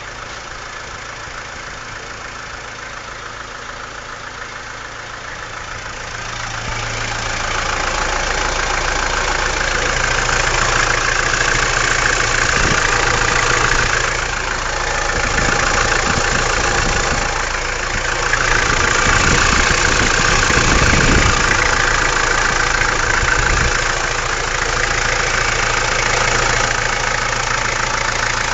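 Mahindra MM 540 DP tractor's diesel engine idling, then throttled up about six seconds in and held at higher revs, easing off briefly a few times.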